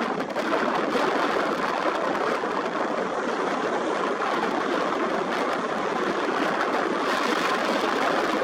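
Airbus H135 helicopter running close by: a steady rushing noise of its rotors and turbine engines.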